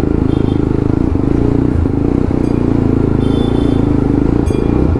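Jawa 42 motorcycle with an aftermarket silencer, its single-cylinder exhaust running at a steady, low-revving cruise with a dense, even rumble. A few short high-pitched tones sound over it.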